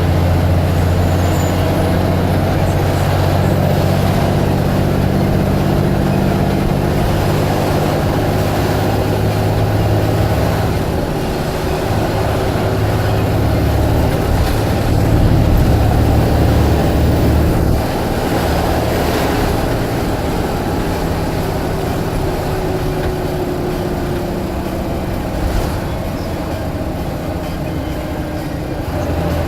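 Blue Bird All American bus's diesel engine running. Its low drone shifts in pitch about a third of the way in, grows louder past the middle, then drops away suddenly a little after halfway.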